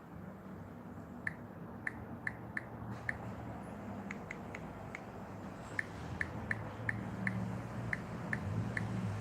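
A series of light, sharp clicks at an uneven pace, about two a second, over a low steady hum.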